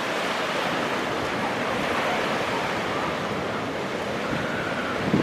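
Ocean waves breaking as a steady rush of surf, with strong wind blowing on the microphone. A brief thump comes near the end.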